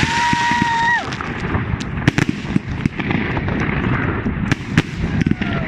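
Fireworks going off: a dense series of sharp cracks and pops from a consumer firework cake. A held, high shout lasts for about the first second.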